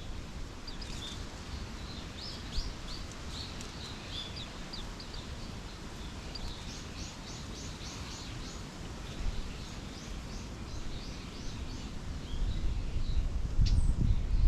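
Small songbirds chirping and twittering, with a quick run of about eight repeated notes midway. A low rumble swells up near the end.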